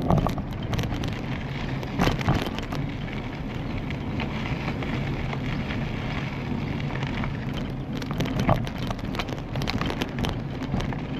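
Riding a bicycle: a steady rushing of wind on the microphone and tyres rolling on the path, with a few sharp rattles or knocks, the loudest about two seconds in and about eight seconds in.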